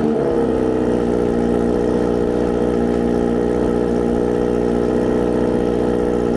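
Kawasaki Z900RS inline-four idling through a Wirus Win slip-on exhaust with the baffle removed, loud. It drops back from a brief rev at the very start, then settles to a steady idle.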